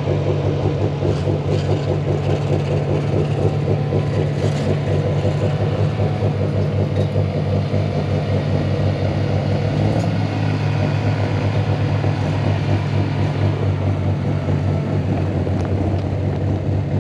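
A large engine running steadily at a constant low speed, a deep continuous rumble with a slight change in its note about ten seconds in.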